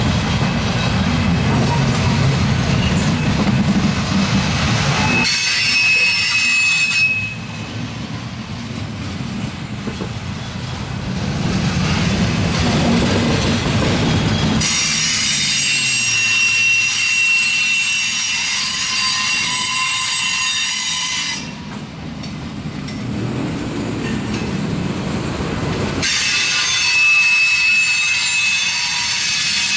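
Loaded coal train's open-top hopper cars rolling past on steel rails, a steady low rumble of wheels on track. Three times a high-pitched wheel squeal sets in abruptly and runs for a few seconds: about five seconds in, a longer stretch from about a quarter of the way through, and again near the end.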